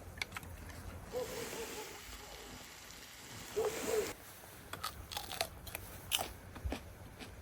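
Crunchy food being bitten and chewed close to the microphone, a run of crisp crunches through the second half. Before them, about three seconds of hiss with two short wavering squeaks.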